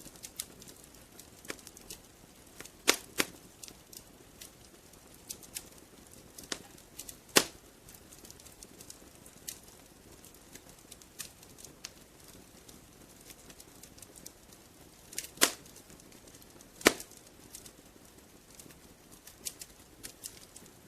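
Wood fire crackling in a fireplace: scattered small crackles with about five louder sharp pops, over a faint low hiss.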